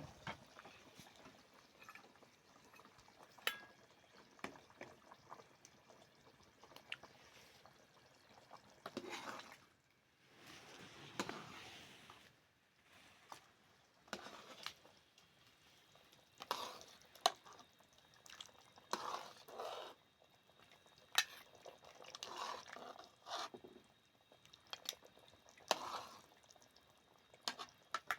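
Liquid pouring and sloshing in short spells, among scattered light clicks and taps.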